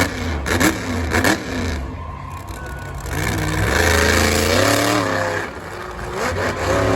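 Monster truck engine revving in bursts: two quick blips, then a longer held rev that wavers in pitch, and another blip near the end.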